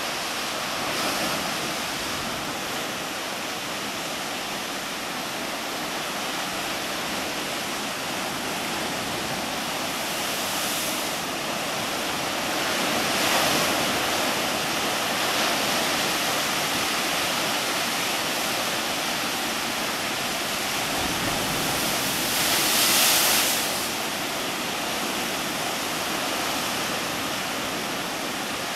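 Heavy typhoon swell breaking on a rocky shore: a constant wash of surf with waves crashing in louder surges every few seconds, the biggest about 23 seconds in.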